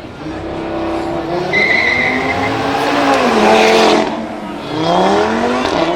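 Car engine under hard acceleration, pitch climbing steadily, with a brief high tyre squeal early on. The revs drop about four seconds in, as at a gear change, then climb again.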